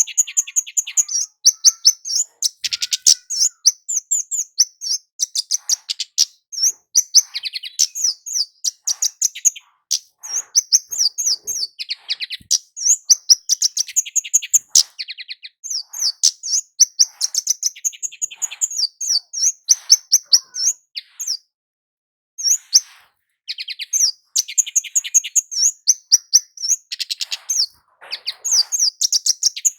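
Kemade jawa, a small flowerpecker, in full song: long runs of fast, high-pitched chirping notes, with one brief pause about two-thirds of the way through.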